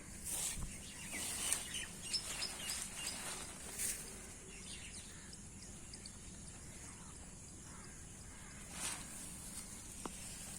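Birds chirping over a steady high hiss, mostly in the first half, with a few brief rustles.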